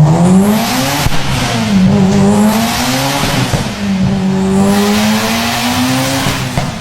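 Mitsubishi Lancer Evolution IX's turbocharged 2.0-litre four-cylinder pulling hard through the gears: the revs climb, then drop at an upshift about a second in, again about three and a half seconds in, and once more near the end. A rushing hiss swells with each pull.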